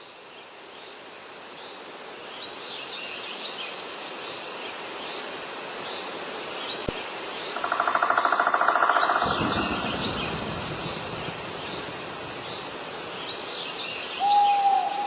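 Open-field ambience with small birds chirping in short bursts. About eight seconds in, a loud, rapidly pulsing buzz lasts about a second and a half, and near the end a short steady beep sounds.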